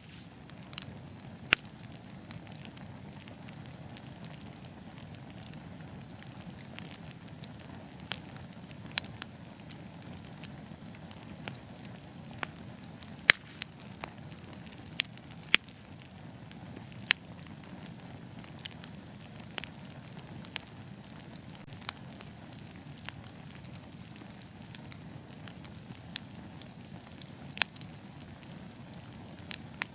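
Wood fire burning in a fireplace: a steady low rush of flames with irregular sharp crackles and pops scattered throughout, some of them loud.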